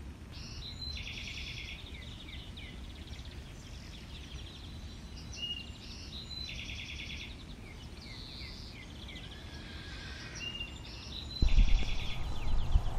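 Songbirds singing, with repeated short trills and chirps, over a steady low rumble of wind on the microphone. About a second and a half before the end, a sudden, much louder low rumble comes in.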